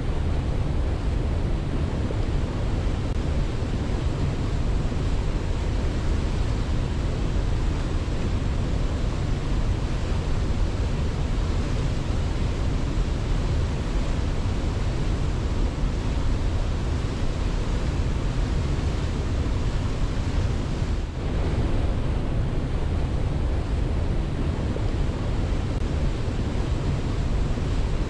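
Steady rushing water, a dense even noise heaviest in the low end, with no birdsong, and a brief dip about three-quarters of the way through.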